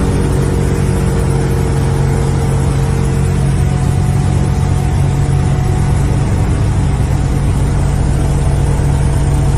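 Mini toy helicopter's small electric motor and rotor whirring steadily at a constant pitch.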